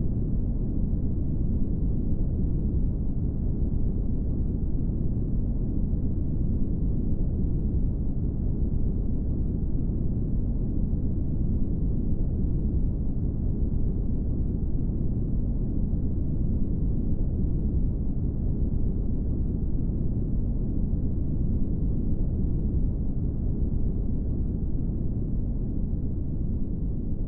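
Steady brown noise: a deep, even hiss weighted toward the low end, with no tones or breaks, beginning to fade near the end.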